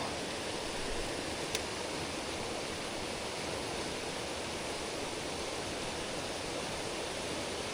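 Steady rush of a mountain stream: an even hiss of flowing water over rocks, with one light click about a second and a half in.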